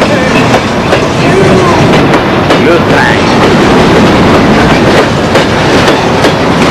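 A train running on the rails: a loud, steady rumble with the clickety-clack of wheels over the rail joints.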